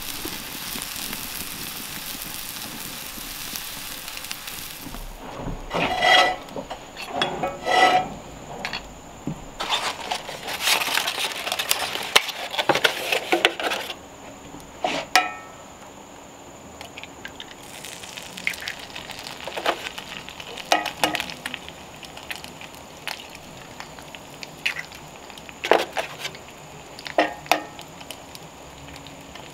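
Sausage patties sizzling in a cast-iron skillet over a wood fire, with a few ringing clanks of cast-iron pans and utensils about six to eight seconds in and a louder stretch of sizzling midway. Later come scattered sharp taps, as eggs are cracked into a second hot skillet.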